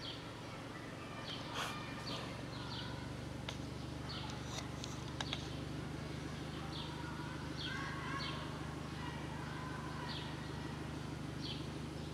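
Small birds chirping, short high falling notes that repeat every second or so, over a steady low background hum, with a few faint clicks.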